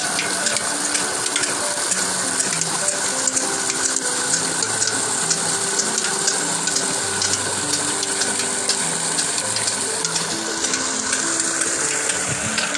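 Old water-lifting machine's gear mechanism clicking and clattering as it turns, with water splashing. A melody of short notes plays over it.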